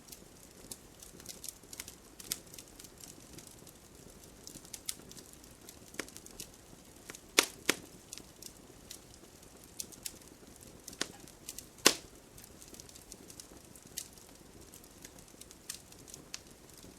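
Campfire crackling: irregular sharp pops and snaps of burning wood over a faint steady background, with a few louder pops about seven and a half seconds in and again near twelve seconds.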